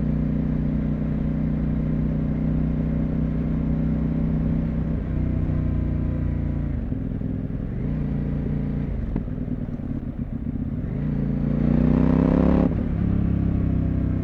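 CFMoto 800MT's parallel-twin engine running on the move. The note holds steady, falls away about five seconds in, then rises under throttle near the end and cuts off sharply.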